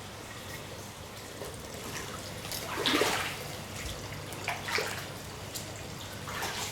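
Rain and wet-weather water noise over a steady low hum, with three water swishes about two seconds apart, the first the loudest.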